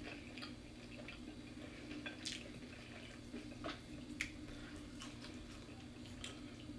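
Quiet eating sounds of fried chicken being chewed: a few scattered wet mouth clicks and smacks over a faint steady hum.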